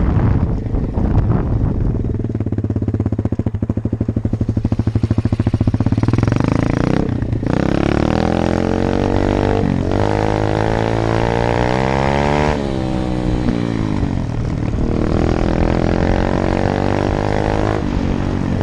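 125 cc Apollo dirt bike engine running under way, the revs climbing, dropping back and climbing again several times as it is ridden through the gears.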